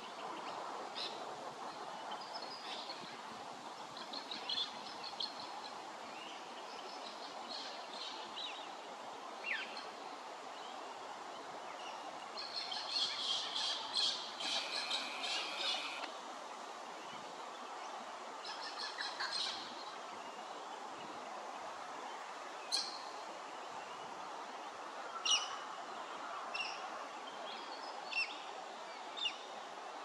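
Small birds chirping on and off over a steady background hiss. A fast run of repeated high notes lasts a few seconds in the middle, and a few sharp single calls come near the end.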